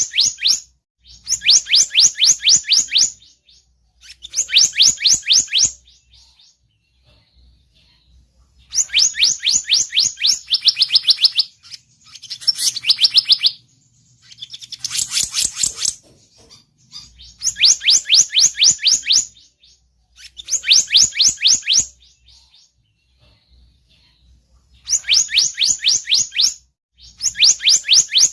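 Bird-lure recording of the songbird called 'selendang biru' in Indonesia: loud bursts of one to two and a half seconds of rapid, high chirps, about five a second, each falling in pitch, repeated over and over with short pauses between them.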